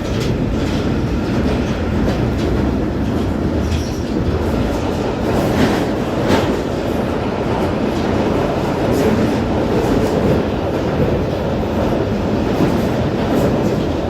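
London Underground Northern line train running through the tunnel, heard from inside the carriage: a loud, steady rumble and roar with scattered clicks of wheels over the rails.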